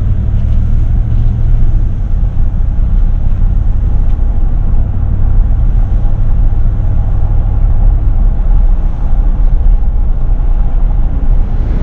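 A vehicle on the move: a steady, loud low rumble of engine and road noise with wind buffeting the microphone.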